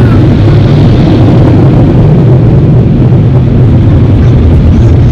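Car wash air dryer blowers blasting air onto the car, heard from inside the car as a loud, steady low rumble.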